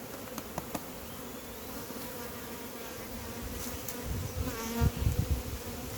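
A large colony of honey bees buzzing as a steady mass hum, disturbed while being moved into hive boxes. A few small clicks come about half a second in, and some low bumps near the end.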